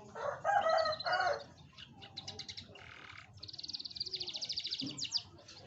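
Canary singing: a loud lower-pitched phrase in the first second and a half, then high, rapid trills, the longest a fast rattling trill from about three and a half to five seconds in.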